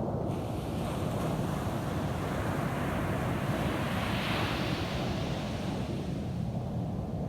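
Ocean surf on a beach: a wave breaks and washes up the sand, its hiss swelling to a peak midway and then fading. A steady low rumble of wind on the microphone runs underneath.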